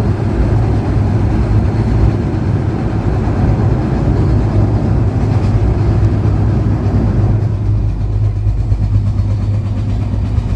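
Passenger train running, a steady low rumble. The higher rushing noise drops away about seven or eight seconds in.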